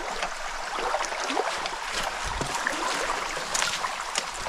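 Stream water running steadily, with a few small splashes and ticks on top.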